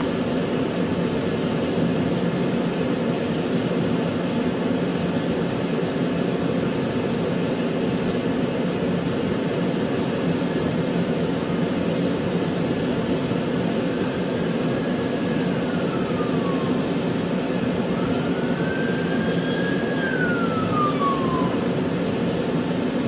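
Steady engine and road noise of a moving police patrol car, heard from inside the cabin. In the second half come two high tones that hold and then slide downward, the second one a little louder.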